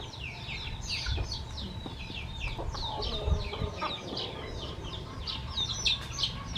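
A crowd of baby birds or chicks cheeping: many rapid, high, downward-sliding peeps overlapping without pause, with a few soft low knocks underneath.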